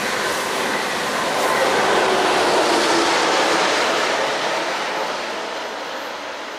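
ICE high-speed train running through the station: a steady rush of wheels on rail, loudest about two to four seconds in, then fading away as the train draws off.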